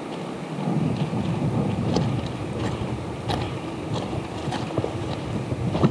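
Wind buffeting the microphone, with irregular crunching footsteps on stony, gravelly ground, about one to two steps a second.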